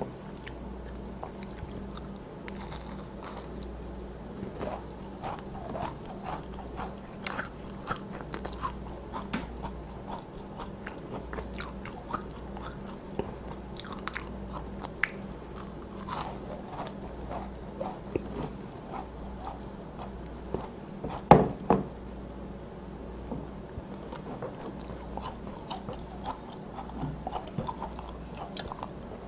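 Close-miked chewing and biting of macarons, with light crunches of the crisp shells and many small wet mouth clicks. About two-thirds through comes a pair of loud knocks, the loudest sound here.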